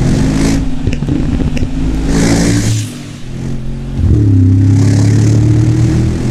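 Mercedes-AMG G63's twin-turbo V8 revving through a KLINE valved exhaust: the pitch climbs and falls, with a few sharp pops about a second in. It eases off around three seconds in, then climbs again in a long, loud rev.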